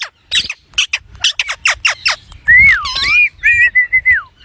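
Green parrot calling: a quick run of about seven short, falling squawks, then louder whistled notes, the first dipping in pitch and rising again, the last held and then sliding down.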